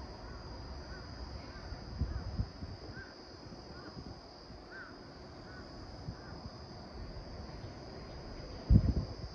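Short chirping bird calls repeating every half second or so over a steady high-pitched drone, with gusts of wind rumbling on the microphone. The loudest gust comes near the end.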